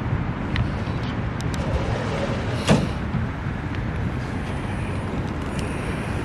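A car driving, with a steady rumble of engine and road noise. A single sharp thump comes a little under three seconds in.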